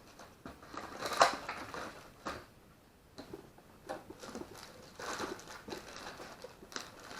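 Plastic misting-system tubing and push-in nozzle fittings being handled, with irregular clicks, crinkles and rustles; the loudest click comes about a second in.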